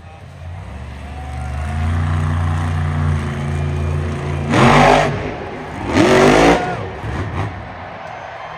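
Monster truck's supercharged V8 engine running steadily, then revved hard twice, each rev a short, loud blast rising sharply in pitch, the first about halfway through and the second a second later.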